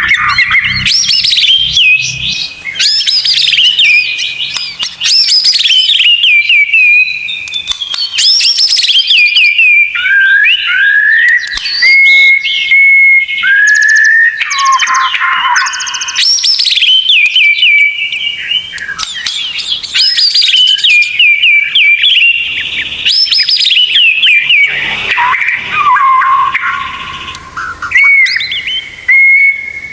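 Loud, near-continuous songbird song of the kind used as masteran to train white-rumped shamas. Rapid whistled phrases sweep up and down, broken by sharp high notes and a few short held whistles.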